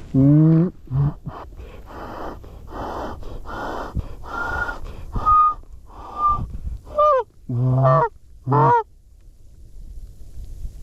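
A hand-blown goose call working geese: a few loud honks at the start, breathy moans through the middle, then a quick run of honks and clucks near the end.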